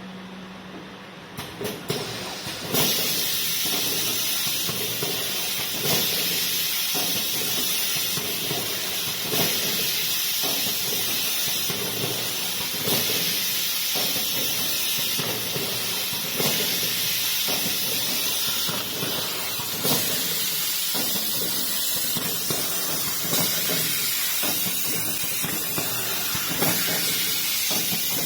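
Automatic premade-bag liquid packaging machine starting up about two seconds in and running: a steady hiss with clacks of its mechanism, and a louder clunk about every three and a half seconds as each cycle comes round.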